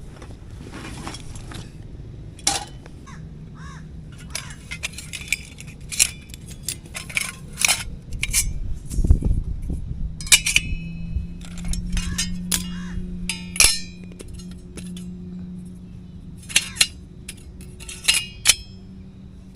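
Metal cookware and utensils clinking and knocking, irregular strikes, some leaving a brief ringing tone. A steady low hum sets in about halfway through.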